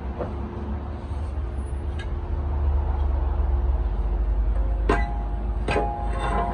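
A steady low rumble, then from about five seconds in several sharp metallic clinks, each followed by a brief ringing, as metal parts knock together.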